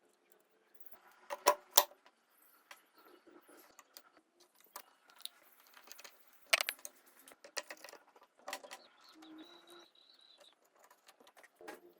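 Tools and small metal parts being handled on a workbench: irregular light clinks and taps, with two sharp knocks about one and a half seconds in and another about halfway through.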